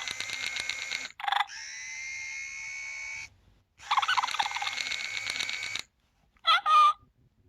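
Senario Scoozie electronic toy ferret playing its built-in animal sounds through a small speaker: two bursts of rapid pulsing chatter with a steady hiss between them, then a short squeak near the end.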